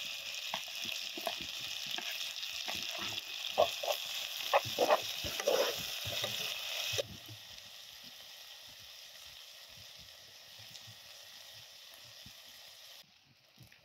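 Chopped sausage and vegetables sizzling in hot oil in a frying pan, with a utensil knocking and scraping against the pan as it is stirred. About seven seconds in the sizzle drops abruptly to a much fainter hiss.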